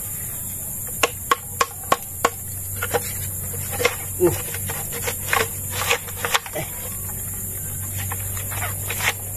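Irregular sharp clicks and knocks, a dozen or so spaced unevenly, from handling a trap with a freshly caught land crab (kagang) inside. A steady high hiss and a low hum run underneath.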